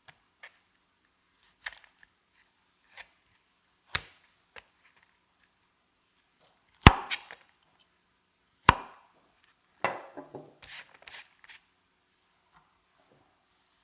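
Kitchen knife striking a cutting board during food prep: a dozen or so irregularly spaced knocks, the loudest about seven seconds in, and a quick run of lighter cuts near the end.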